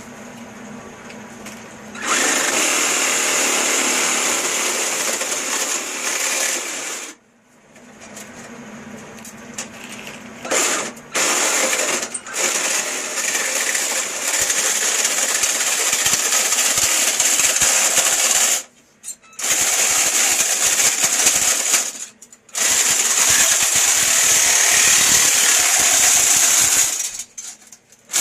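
A power tool running in long loud bursts that stop and restart several times. After a quieter first two seconds it runs for about five seconds, pauses, and runs again in stretches of several seconds each.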